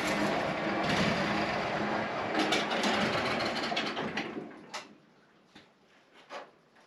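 Wood-Mizer LT15 sawmill running steadily, then winding down and stopping about four to five seconds in. A few faint clicks and knocks follow in the quiet.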